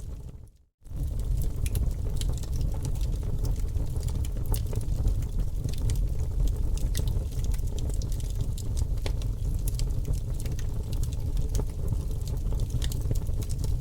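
Fireplace sound: a wood fire crackling and popping over a steady low rumble of flames. It drops out briefly just under a second in, then carries on.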